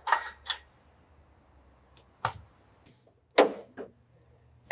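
About five sharp knocks from tool work fitting a new exhaust muffler, spaced irregularly: two in the first half second, one a little past two seconds, then two close together near the end, each with a short ringing tail, over a faint low hum.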